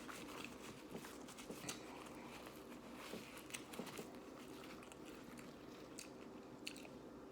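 Faint chewing and soft mouth clicks of someone eating a chicken and rice lettuce wrap, with a few scattered small crunches.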